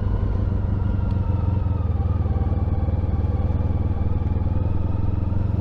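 Honda ST1300 Pan European's V4 engine running steadily while the motorcycle is ridden, a constant low rumble with only slight changes in pitch.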